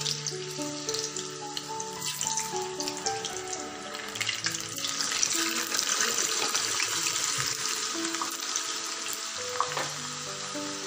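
Raw potato sticks sizzling and crackling as they deep-fry in hot oil in a kadai. This is the first, low-flame fry of twice-fried French fries. The sizzle grows louder about halfway through as a plateful more goes in, over background music with a melody.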